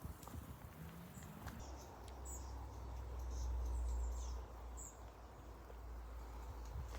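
Quiet outdoor ambience: faint, short high chirps scattered throughout, with a low rumble that swells between about two and four and a half seconds in.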